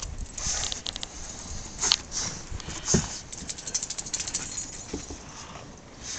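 A small dog moving about close by, its paws pattering with irregular light clicks and rattles, and a couple of sharper knocks about two and three seconds in.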